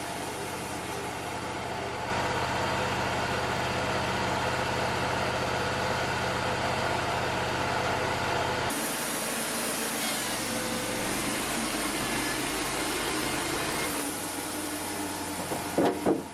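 Wood-Mizer LT35 portable bandsaw mill running steadily while sawing. Its sound changes about two seconds in and again near the middle, with a brief louder noise just before the end.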